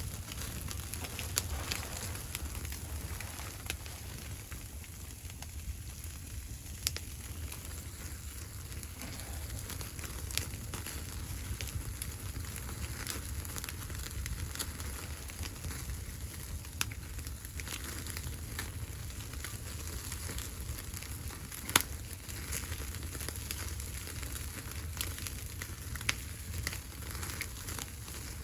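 Wood fire crackling, with scattered sharp pops over a steady low rumble; the loudest pop comes about three quarters of the way through.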